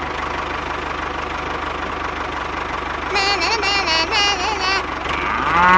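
Small tractor engine idling with an even, steady chugging. About three seconds in, a wavering, pitch-bending voice-like sound plays over it for a couple of seconds.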